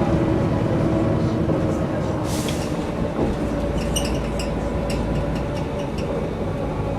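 Mercedes-Benz O405 N² city bus on the move, heard from inside the passenger cabin: its diesel engine and Voith automatic gearbox run steadily, with a few short rattles from the interior about four seconds in.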